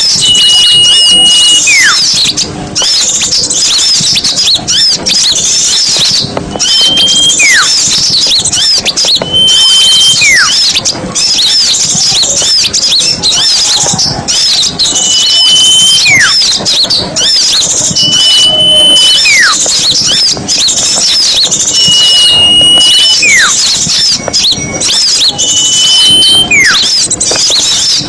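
Bird-lure recording of many small songbirds chattering at once in a dense, continuous twittering, with a repeated call every few seconds: a short level whistle followed by a whistle that falls steeply in pitch.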